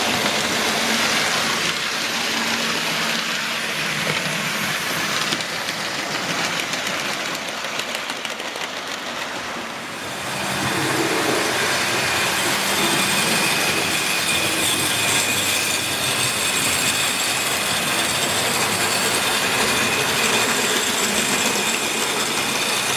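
Model railway tank locomotive running on the layout with a heavy train: steady motor whir and wheels rattling over the track. It fades a little about nine seconds in, then comes back, with a faint high whine.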